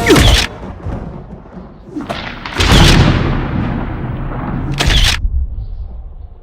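Fight sound effects: three heavy punch-and-impact hits, at the start, about two and a half seconds in and about five seconds in. The middle hit is the loudest, with a booming tail that dies away over about two seconds.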